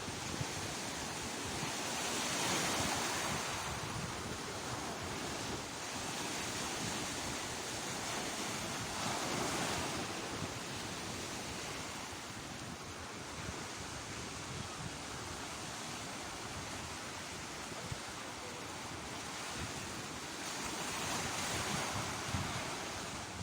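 Ocean surf: waves breaking and washing in a steady rush, swelling louder about two seconds in, again around nine seconds, and near the end. Wind gusts rumble on the microphone.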